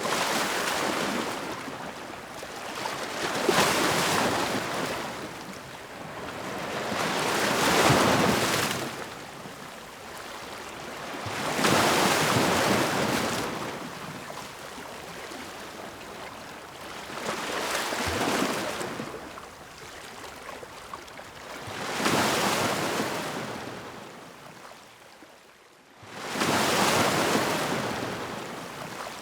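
Ocean surf: waves washing in one after another, each a swell of rushing water that rises and falls away, about every four seconds. Near the end one wave comes in abruptly after a brief lull.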